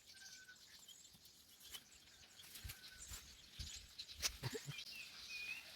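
Faint outdoor ambience: birds giving a few short whistled chirps, with scattered soft clicks and knocks.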